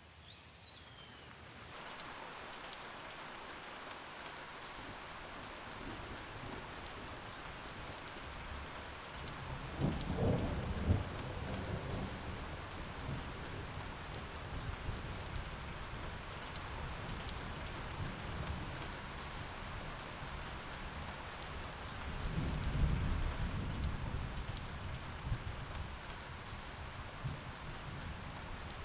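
Steady rain falling, fading in over the first two seconds, with two rolls of thunder rumbling low: one about ten seconds in and a longer one past twenty seconds.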